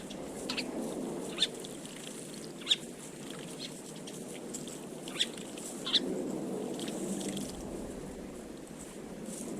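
Short, sharp chirps from small garden birds, about five spread through, over a steady low background rumble.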